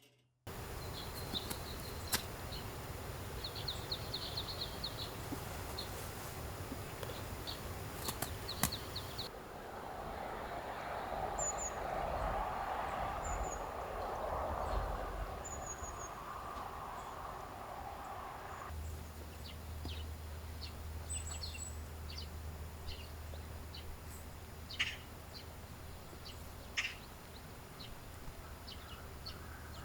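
Outdoor ambience with small birds chirping now and then in short high notes. A steady rushing noise fills roughly the middle third, and scattered clicks and taps run throughout.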